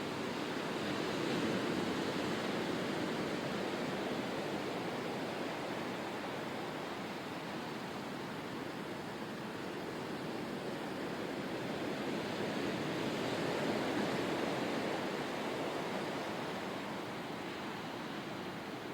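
Ocean surf: a steady wash of rushing water that swells twice, about a second in and again past the middle, as waves come in.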